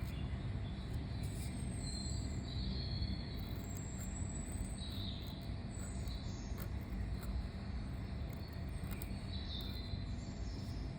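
Birds chirping in short calls over a steady low background rumble, with faint scratches of a pen on paper.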